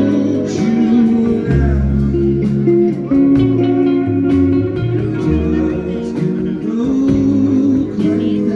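Live rock band playing: electric guitars over held bass notes, with drums keeping time.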